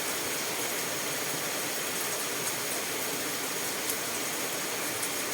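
Steady rain drumming on a metal roof, an even hiss with a faint tick or two.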